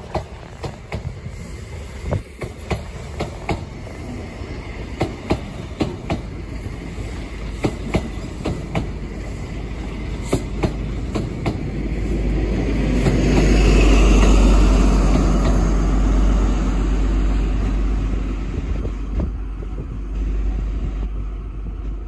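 Midland Pullman High Speed Train passing at speed, its coach wheels clicking sharply and regularly over rail joints above a steady rolling rumble. The sound swells into a much louder rumble past the middle, loudest about 14 s in, then eases off.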